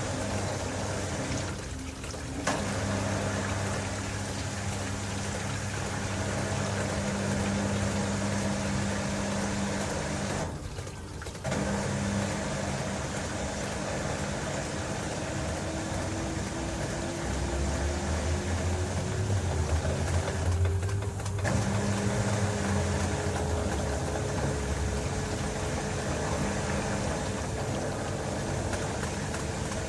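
LG TurboDrum WT-R852 top-loading washing machine running with a full load of bedding: a steady motor and drum hum that breaks off briefly about two, eleven and twenty-one seconds in, with a faint whine that slowly rises in pitch through the second half.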